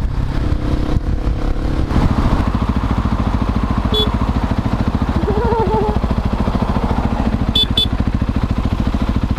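Husqvarna 701 Supermoto's single-cylinder engine, through a Leo Vince slip-on exhaust, running under way. About two seconds in, the note changes to a steady, even pulsing as the throttle comes on. A few short high beeps sound briefly.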